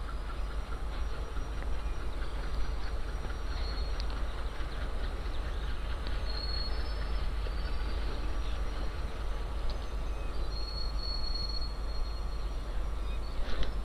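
Train on the nearby tracks at a distance: a steady low rumble with two brief, faint high-pitched squeals, about six and eleven seconds in.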